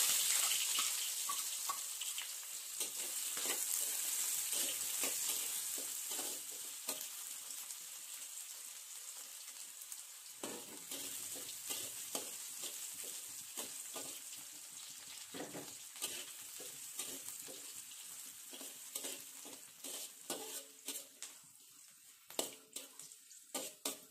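Sliced garlic, ginger and galangal sizzling in hot oil in a wok as they fry until fragrant. The sizzle is loudest at the start, when they have just gone in, and slowly dies down. A metal spatula scrapes and taps against the wok as they are stirred, more often in the second half.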